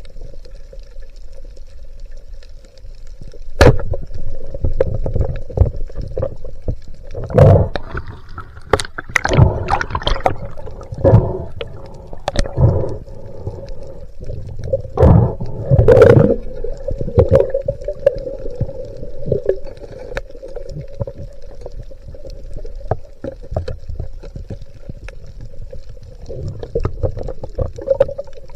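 Underwater sound on a spearfishing dive: a steady hum with many irregular knocks, clicks and gurgling, busiest from a few seconds in to about halfway.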